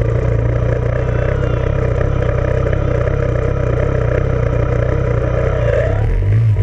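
Off-road vehicle engine running steadily under way, its note shifting about six seconds in.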